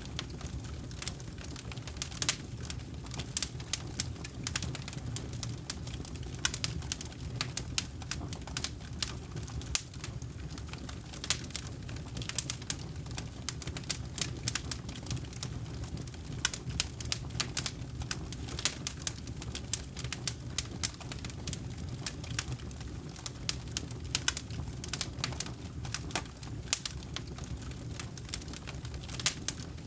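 Campfire of burning wood crackling, with irregular sharp pops over a steady low rumble of the flames.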